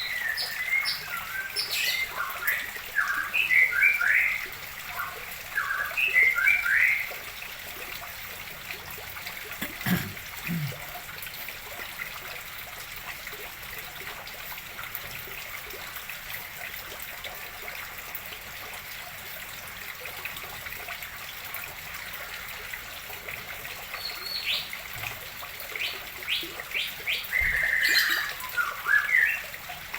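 Songbirds chirping and singing in quick bursts during the first several seconds and again near the end, over a steady trickle of water running into a fish pond as it is refilled.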